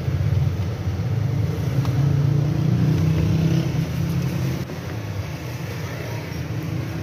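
Low, steady rumble of a vehicle engine running, a little louder between about two and four seconds in.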